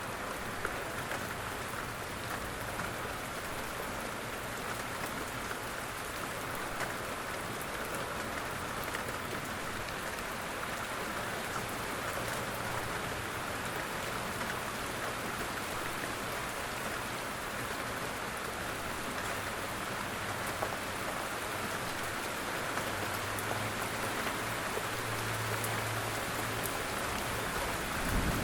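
Steady rain falling, an even dense patter of drops, with a low rumble underneath that grows louder in the last few seconds.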